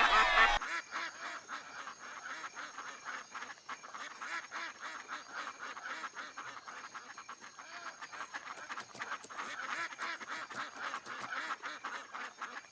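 A flock of ducks quacking at once: a continuous, busy chorus of many overlapping short quacks, from the Hollywoodedge close duck-quacks sound effect. It starts about half a second in.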